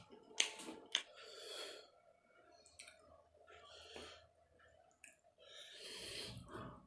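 A person eating chicken close to the microphone: chewing, with short wet mouth clicks and smacks, sharpest about half a second and a second in, and soft breaths between bites.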